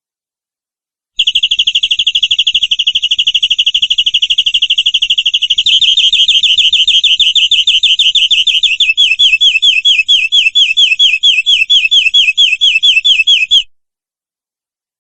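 Domestic canary singing a long trill of rapidly repeated notes, starting about a second in. About halfway it changes to a slower run of distinct downward-sliding notes, then stops abruptly.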